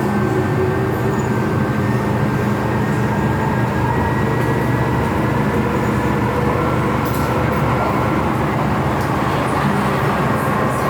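MTR M-Train electric metro train running: a steady rumble with a few faint high, steady tones over it.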